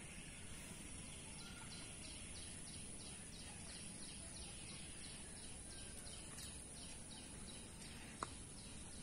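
Faint outdoor background with a bird calling in a fast repeated series of short high notes, about three a second, that stops near the end. A single sharp click sounds about eight seconds in.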